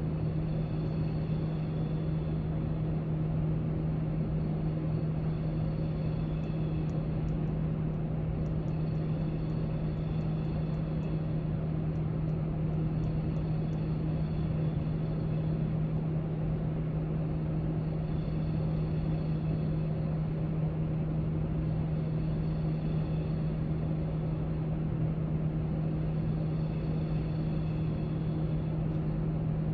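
Library background noise: a steady low hum and rumble, with a scatter of faint light clicks in the middle stretch.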